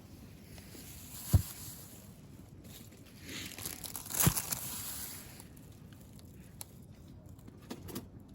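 Rustling and crinkling of gear being handled, with two dull thumps, about a second in and near the middle.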